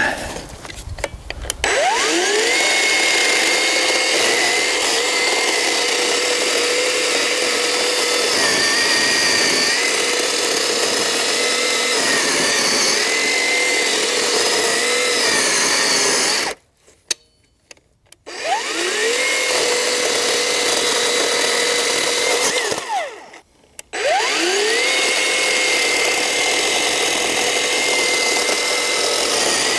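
Black+Decker GKC3630L20 36 V cordless chainsaw running: the electric motor spins up with a rising whine about two seconds in and holds a steady high whine, its pitch dipping now and then as the chain cuts into a log. It stops twice, briefly, and starts up again each time.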